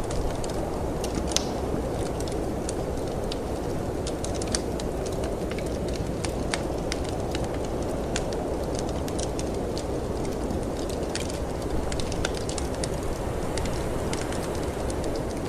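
Wood fire crackling in a fireplace, with many small snaps and pops scattered throughout, over a steady low rush of storm wind.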